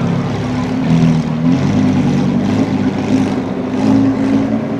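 Car engine and exhaust running at low revs: a steady, deep drone that wavers slightly in pitch.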